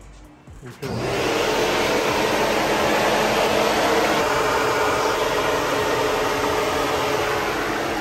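Carbureted V8 engine of a Ford Maverick street car, running steadily and loudly from about a second in, with its new carburetor fitted.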